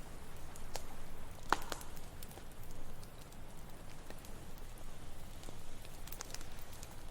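Campfire crackling with scattered sharp pops, the loudest about a second and a half in, over a low steady wash of ocean waves.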